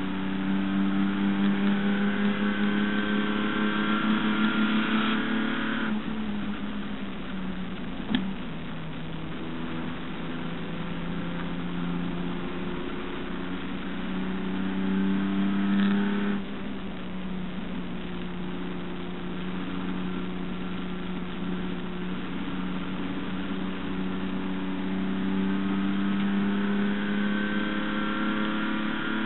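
HQ Holden race car's inline-six engine, heard onboard, pulling hard under load, its revs dropping sharply twice as the throttle is lifted or a gear changed. A single sharp click is heard about 8 seconds in.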